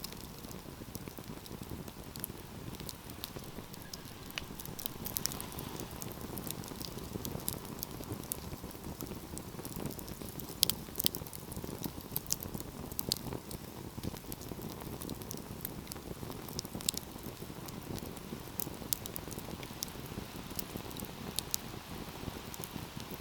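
Wood fire crackling in a fireplace: irregular sharp pops and snaps over a steady low rush of burning flames, with the loudest pop about ten seconds in.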